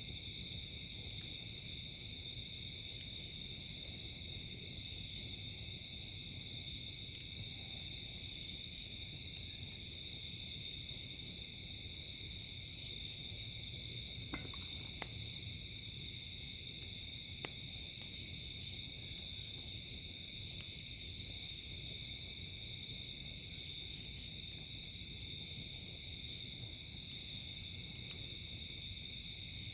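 Steady high chirring chorus of night insects, with a still higher-pitched call that comes and goes every few seconds. A few sharp campfire crackles pop through now and then, about halfway through.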